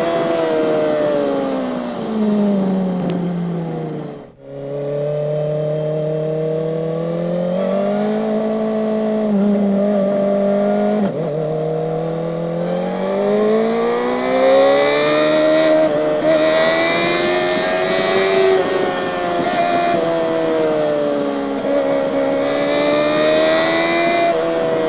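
Kawasaki ZX-4RR's 399 cc inline-four engine heard from on board while riding. Its revs fall away over the first few seconds, and the sound drops sharply for a moment about four seconds in. Then the engine climbs through the revs, eases off and builds again several times.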